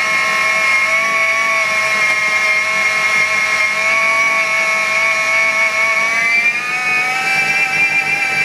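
Miele Complete C3 canister vacuum cleaner running with a loud, steady, sawmill-like whine, its pitch rising slightly about six and a half seconds in. The noise persists with the missing filter refitted, which the owner takes as a sign the vacuum is broken.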